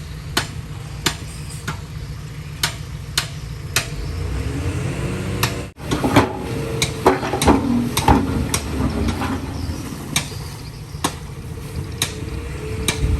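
Heavy diesel machinery running steadily, with sharp knocks repeating roughly every half second. The sound drops out briefly about six seconds in, and the engine sound turns more uneven after that.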